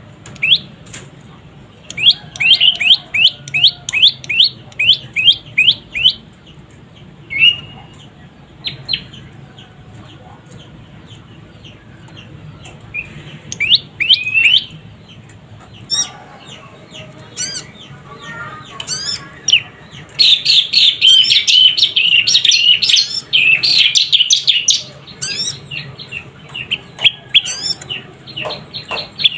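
Young prenjak lumut (prenjak pyeng) chirping: quick runs of sharp, high notes in bursts separated by pauses, with the densest, loudest chattering about two-thirds of the way through.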